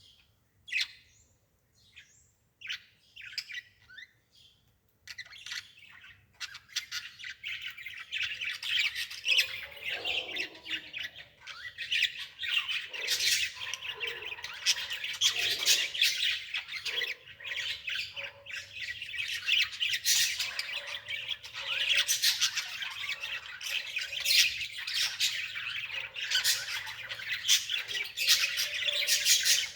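Birds chirping and squawking: a few scattered calls at first, then from about five seconds in a dense, continuous chattering of many calls.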